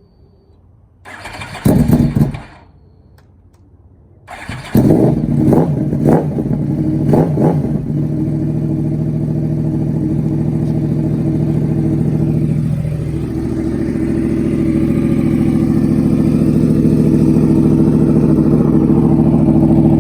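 Yamaha R1 Crossplane inline-four with a Toce slip-on and mid-pipe exhaust being started: a first short burst that dies away, then the engine fires about four seconds in, is blipped several times, and settles into a steady, loud idle.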